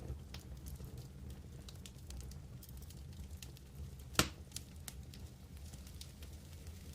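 Wood campfire crackling, with scattered small pops over a low steady rumble and one louder pop about four seconds in.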